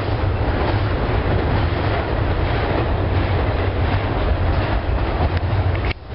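Freight train of double-stack container cars rolling past, a steady low rumble of wheels and cars; it dips briefly near the end.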